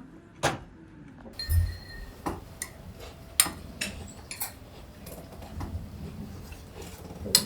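Tableware being handled at a dinner table: about half a dozen separate sharp clicks and clinks of dishes and utensils, with a soft low thump about a second and a half in.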